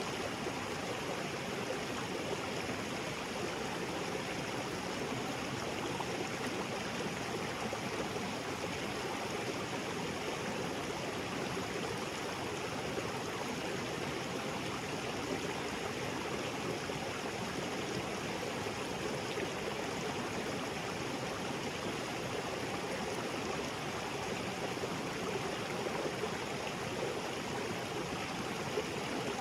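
Small waterfall spilling into a creek: steady rushing and splashing water.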